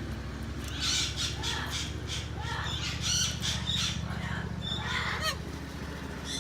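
Parrots calling in a rapid string of short, sharp squawks for about four seconds, over a steady low hum.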